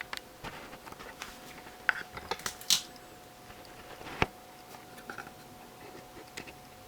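Handling noise on a circuit board or work bench: scattered light clicks and taps, with a sharper knock about four seconds in, over a faint steady tone.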